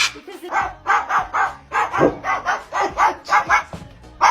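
Pet parrot giving a quick run of short, bark-like squawks, about three a second.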